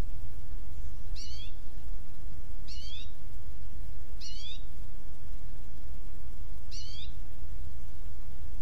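A bird calling four times, each call a short, quick rising slur with two layered tones, spaced a second or two apart. A steady low rumble runs underneath.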